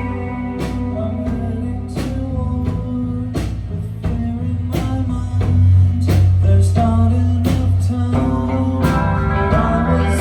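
Live band music: guitar over a heavy low end, with a steady beat of sharp hits.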